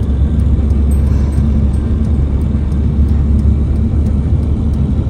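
A car driving on the road, with a steady low rumble of engine and road noise.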